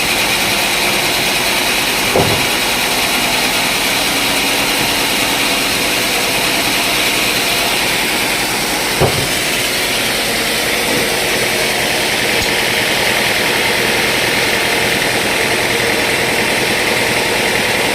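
Sawmill machinery running steadily, a dense mechanical hum with two brief knocks, about two seconds in and about nine seconds in.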